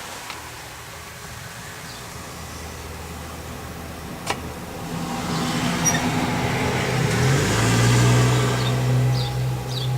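An engine running steadily, swelling louder from about halfway and easing off near the end, like a motor vehicle going by. A few short high chirps come near the end.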